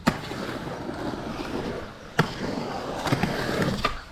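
Skateboard riding a mini ramp: the wheels rumble as it rolls, broken by sharp clacks of the board at the start, about two seconds in and twice more near the end.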